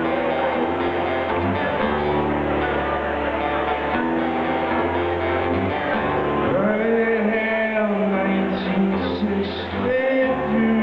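Acoustic guitar strummed and picked through the opening chords of a song, played live. Past the middle a long wordless sung note rises over it, with another near the end.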